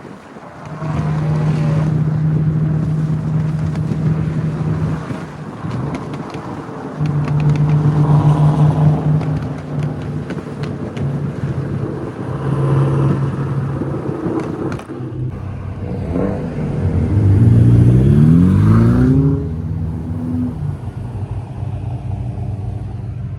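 Sports car engines on the road, holding a steady drone for stretches, then one revs up with a rising pitch for about three seconds near the end.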